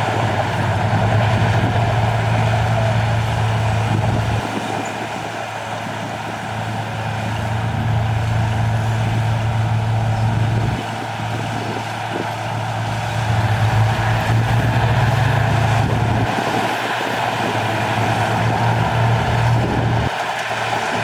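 Heavy diesel engine of an earthmoving machine working in repeated cycles. It pulls hard under load for about four seconds, eases off for a second or two, then loads up again, four times over, with a steady mechanical clatter above it.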